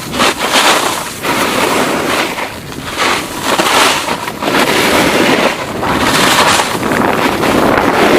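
Wind rushing over the microphone, a loud noisy rush that swells and fades about once a second.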